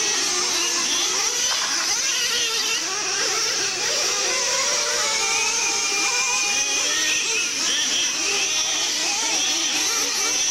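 Several nitro-powered R/C monster trucks racing at once, their small high-revving engines whining and rising and falling in pitch as they accelerate and back off around the track.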